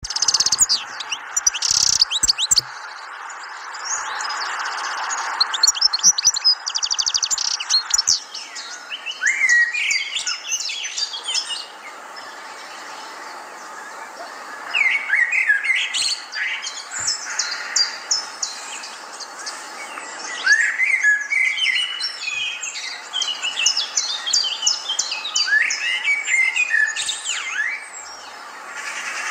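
Birds chirping and calling over and over in short, sharp notes that rise and fall, with a steady hiss underneath for the first several seconds.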